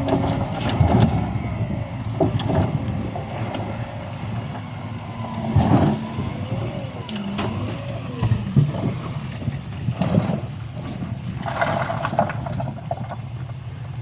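Heavy diesel earthmoving machinery running steadily, with scattered metallic clanks and knocks and a wavering tone over the engine rumble.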